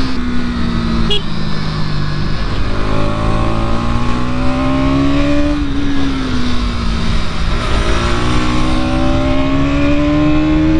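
Bajaj Pulsar NS200's single-cylinder engine under way. Its note drops, climbs for a few seconds, eases off around the middle and climbs again toward the end as the throttle is opened and closed, over a steady rush of wind and road noise.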